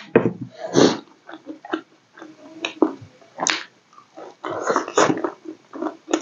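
Close-miked eating sounds: a person chewing a mouthful of fried vegetables with her mouth open, wet lip-smacks and short crunches coming irregularly, several a second at times.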